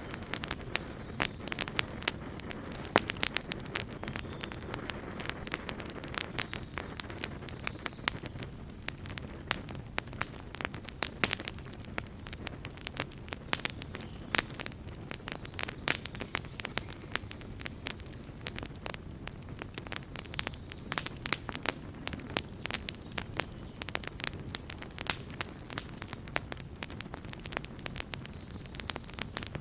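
Wood bonfire crackling, with many irregular sharp pops and snaps over a steady low rush of burning.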